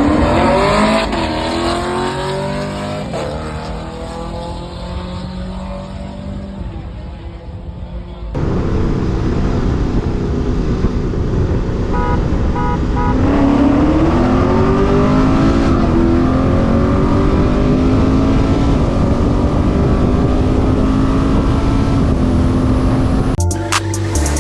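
Car engine accelerating hard under full throttle, its pitch climbing and dropping back through gear changes, heard in two separate runs with an abrupt cut about eight seconds in; the first run fades as the car pulls away. Music with a heavy beat cuts in near the end.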